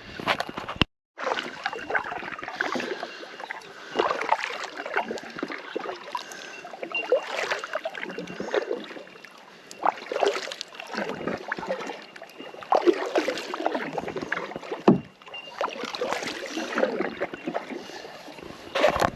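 A small boat being propelled by hand through the water: a swishing, splashing stroke comes roughly every three seconds. A faint, steady high ringing note sits behind it, the calls of a bellbird (bell miner) colony.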